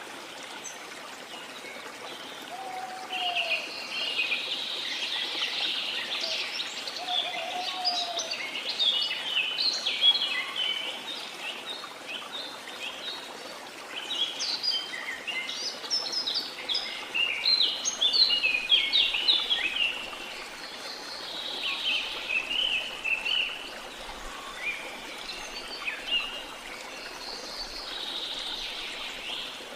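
Small songbirds chirping and twittering in dense, quick clusters over a steady wash of sea or water noise. The birds are busiest twice in the middle, and a few short, low falling notes sound in the first few seconds.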